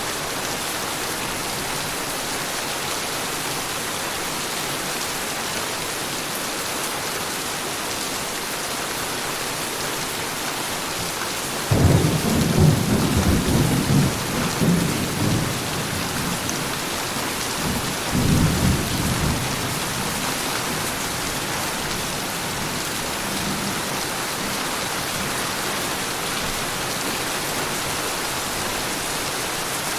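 Heavy rain falling steadily, with a rumble of thunder breaking in suddenly near the middle, rolling for a few seconds, then a second shorter peal a few seconds later.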